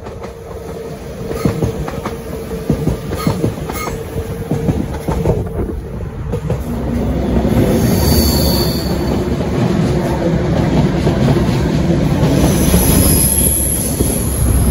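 A diesel High Speed Train passes close below, its power car's engine running loud, followed by the coaches rattling over the track. The sound swells about halfway through as the power car goes underneath, and a thin high wheel squeal joins in near the end.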